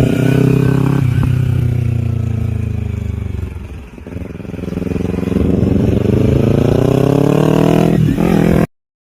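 Kawasaki Ninja motorcycle engine running under way. Its revs fall steadily as it slows, then climb again as it accelerates, with a brief break near the end like a gear change, before the sound cuts off abruptly.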